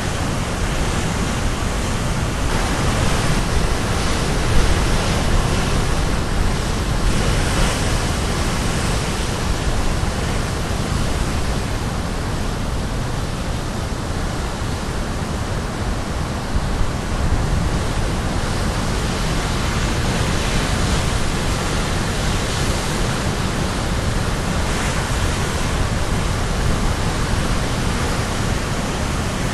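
Sea waves crashing on the shore, a steady rushing surf with slow swells as the breakers come in, with some wind on the microphone.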